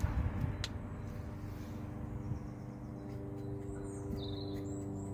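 A few short high bird chirps over a steady low hum, with a single sharp tick a little over half a second in.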